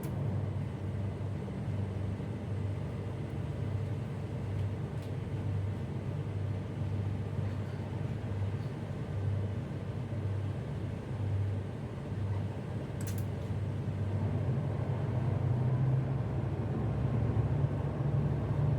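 Tugboat's diesel engine running steadily with a low, pulsing throb, growing slightly louder in the last few seconds.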